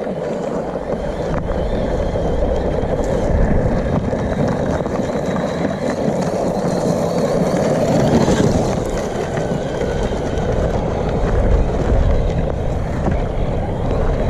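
Losi Baja Rey 1/10-scale 4WD brushless RC truck running over rough dirt, a steady rumble with wind rushing on the microphone. It swells slightly a few times.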